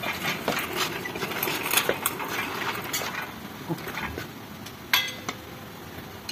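Irregular metallic clinks and knocks of hand tools and metal parts being handled, with one sharp clank about five seconds in.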